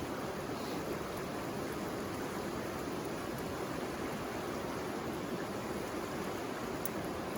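River water flowing, a steady even rushing. A single faint click comes near the end.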